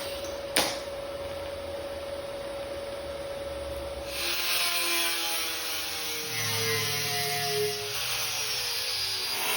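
A handheld power grinder working the welds on a steel sheet-metal pedestal. A steady whine turns to louder, rougher grinding about four seconds in, with the motor's pitch sagging as it is pressed into the work.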